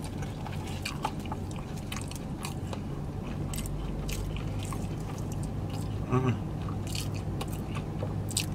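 Close-miked chewing of French fries: wet mouth clicks and crunches, with a short "mm" hum about six seconds in, over a low steady hum.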